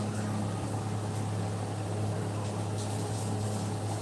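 A steady low machine hum with a constant hiss behind it, unchanging throughout.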